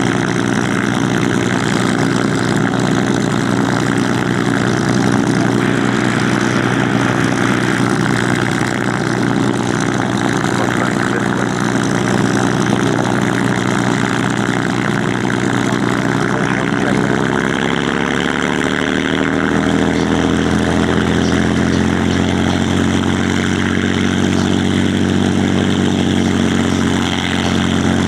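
Piston aero engines of taxiing warbirds (a P-51 Mustang and Hispano Buchons) running steadily at low power. About two-thirds of the way through, engine speed rises and settles at a higher pitch.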